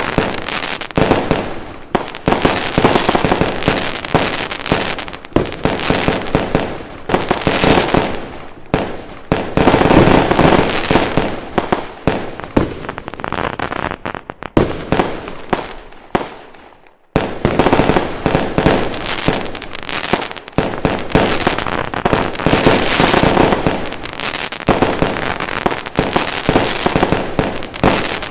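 Fireworks going off in a dense, continuous barrage of bangs and crackling, breaking off for about a second a little past the middle before starting again.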